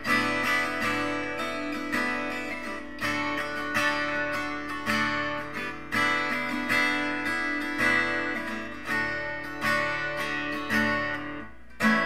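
Acoustic guitar strummed in a slow, regular rhythm: an instrumental passage of a ballad between sung verses.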